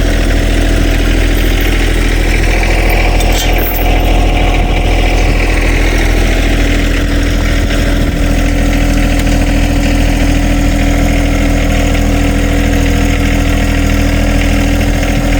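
Truck engine running at a steady speed, a low, even drone with no change in pace.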